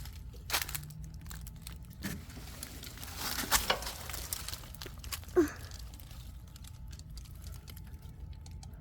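Rustling and crinkling with scattered clicks and knocks, busiest about three and a half seconds in, and a short falling squeak a little after five seconds.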